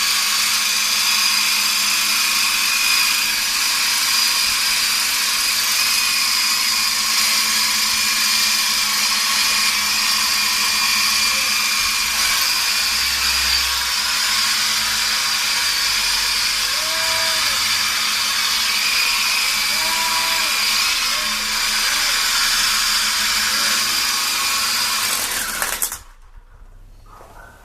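Small radio-controlled helicopter's electric motor and rotor running with a steady high-pitched whine, then cutting off abruptly near the end.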